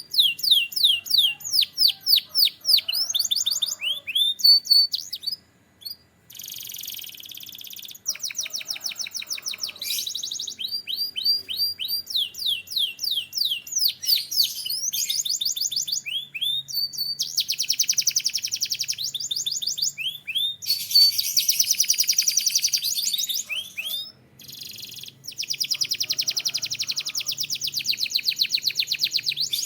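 A canary singing a long, continuous song made of quick trills and runs of falling notes, each phrase repeated many times before the next begins. The song breaks off briefly about six seconds in and again around twenty-four seconds.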